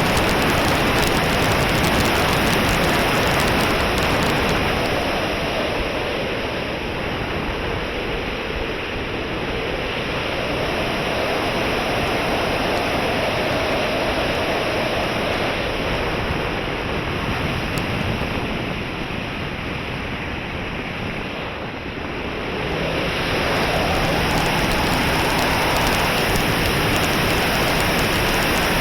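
Wind rushing on the microphone, with the faint whine of an electric RC model airplane's motor and propeller in flight. The whine rises and falls slowly in pitch as the plane passes and turns.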